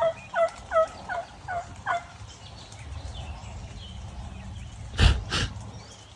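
A run of about six hen turkey yelps at roughly three a second, a turkey call worked lightly to draw a gobbler, ending about two seconds in. About five seconds in come two sharp knocks close together.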